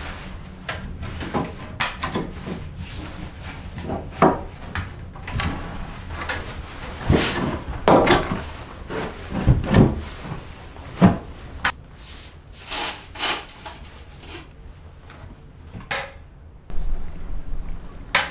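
Irregular wooden knocks, thuds and scrapes, as of objects being handled and set down on wood, loudest in a cluster around the middle.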